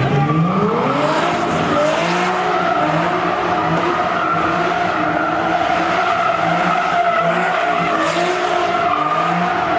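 A car engine revs up over the first two seconds and is held at high revs while its spinning tyres squeal steadily.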